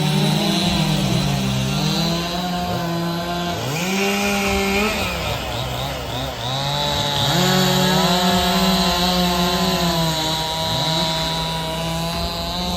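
Chainsaw running, its engine revving up and down repeatedly as it cuts.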